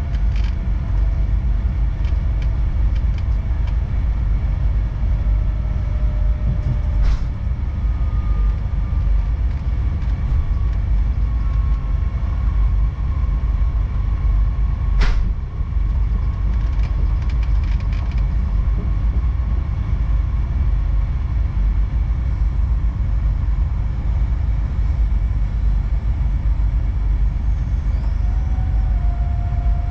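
Regional passenger train running along the line, heard from inside the carriage: a steady low rumble with a faint whine that slowly drops in pitch, and two sharp clicks, the second the louder.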